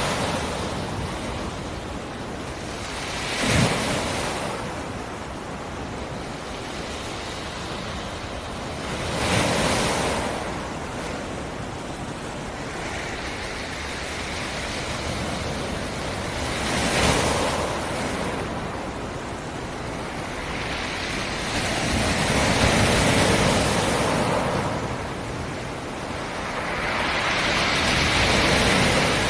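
Black Sea surf: a steady wash of water with about five waves breaking on the shore one after another, the first three short and sharp, the last two longer and fuller.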